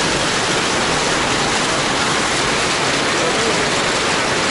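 Heavy downpour of rain mixed with hail, a dense, steady hiss of falling water and ice.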